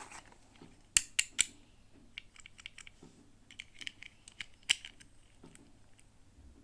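Plastic packaging being handled and opened: three sharp clicks in quick succession about a second in, then scattered small clicks and crinkles, with another sharp click near the end.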